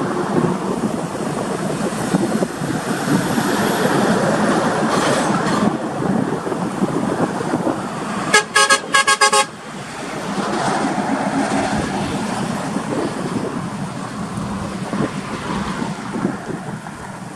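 A vehicle horn, likely a truck's, gives a quick string of about six short toots roughly eight seconds in, over steady traffic and road noise.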